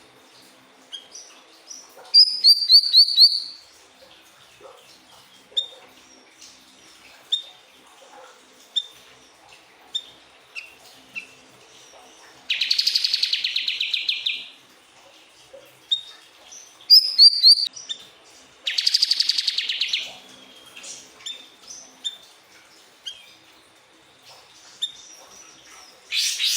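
Siri-siri bird singing: short single chirps about once a second, broken by loud, rapid trills of one to two seconds, heard five times.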